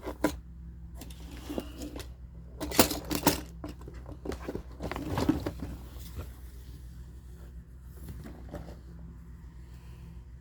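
Handling noise from diecast toy cars and their display case: a few clicks and rustles, loudest about three seconds in and again around five seconds, over a steady low hum.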